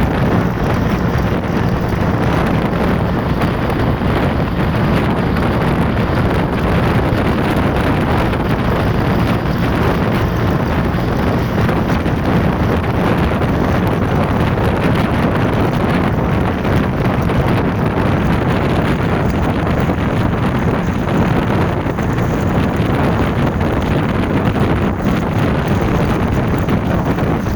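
Steady wind buffeting the microphone, with a low, even engine hum underneath.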